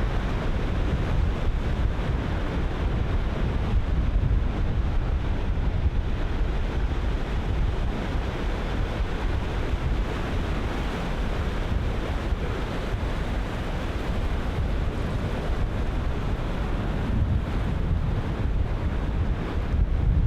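Ocean surf breaking in continuous overlapping waves, with wind buffeting the microphone as a steady low rumble under the wash.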